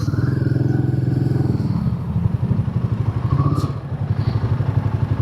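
Motorcycle engine running at idle, a steady low rapid putter.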